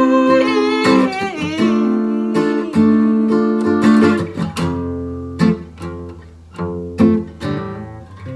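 Acoustic guitar playing the closing bars of a song: strummed chords that ring out, coming more slowly and fading toward the end, with the last sung note trailing off at the start.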